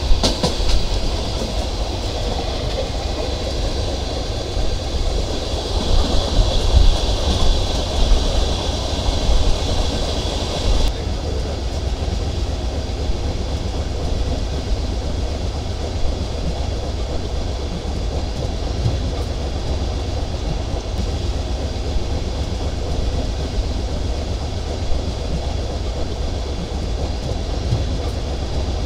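Sundarban Express passenger train running on the rails, a steady rumble heard from aboard the carriage. The higher rushing noise drops off suddenly about eleven seconds in, leaving mostly the low rumble.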